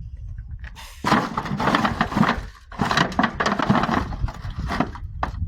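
Scrap being handled and shifted in a truck bed: crunching, clattering and knocking in two long spells, starting about a second in.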